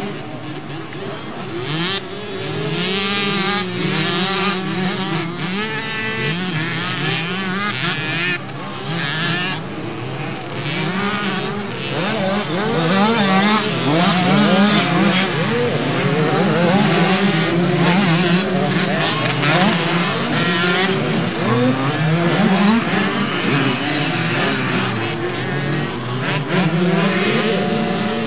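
Several small 50cc and 65cc two-stroke motocross bikes racing, their engines revving up and down over one another; the sound grows louder about twelve seconds in.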